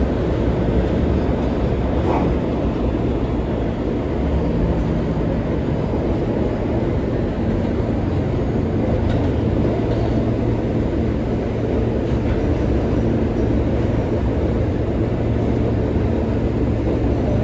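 R143 subway car running between stations, heard from inside the car: a steady rumble of wheels on rail under a low motor hum that drops in pitch partway through, with a few faint clicks.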